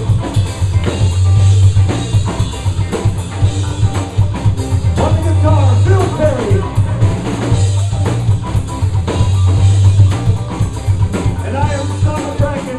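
Live blues band playing. A drum kit keeps the beat under a low, steady bass line, and a lead part plays bending notes.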